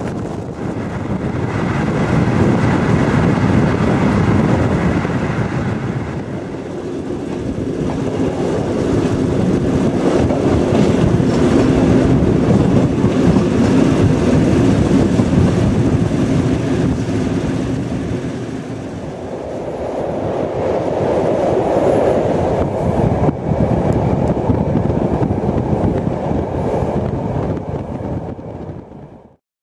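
Train running noise heard from on board: a steady rumble of wheels on the rails that swells and eases, with some clicking over the track, fading out near the end.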